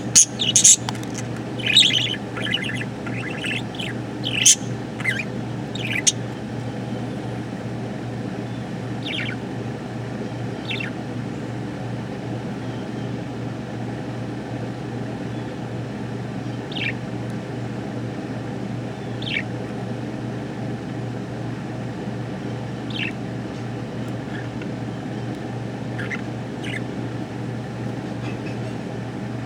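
Budgerigar chirping and squawking in a quick flurry for the first six seconds or so, then giving only a single short chirp every few seconds. A steady low hum runs underneath.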